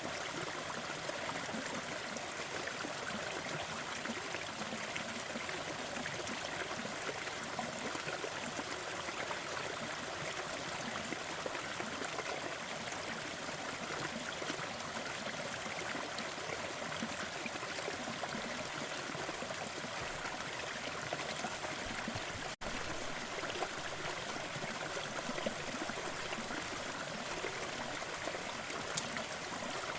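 Waterfall: a steady, even rush of falling water, broken by one momentary dropout about two-thirds of the way through.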